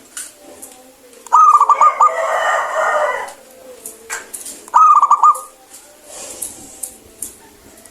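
Zebra dove singing: two phrases of quick staccato cooing notes, about a second and a half in and again near five seconds. The first phrase runs on into a louder, denser burbling for about two seconds.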